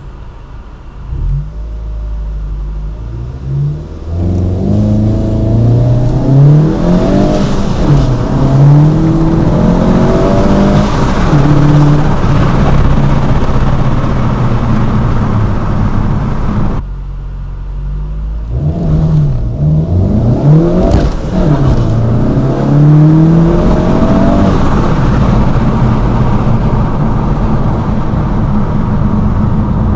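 Remapped VW Golf GTI Mk7.5 Performance, a turbocharged 2.0-litre four-cylinder with a Milltek exhaust, accelerating hard from a standstill in 0–60 mph runs. The engine note climbs and drops back at each upshift. A second launch starts a little after halfway, again climbing through several gears.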